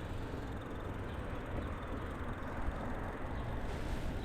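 Steady wind rumble on the microphone and road noise from riding an e-bike along a street.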